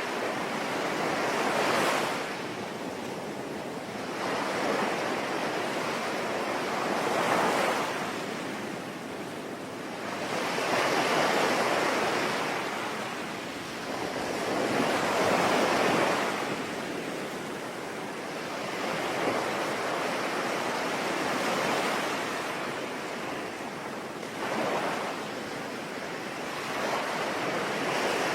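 Sea waves breaking and washing on a shore, swelling and falling away every four seconds or so, over a steady hiss of rain.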